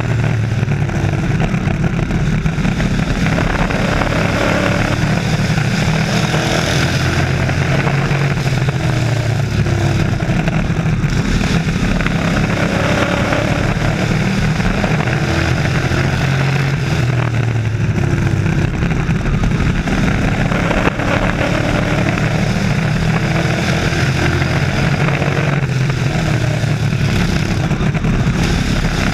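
A field of race trucks' engines running hard around an oval track, a continuous loud engine noise with several pitches rising and falling as the trucks accelerate and lift for the corners.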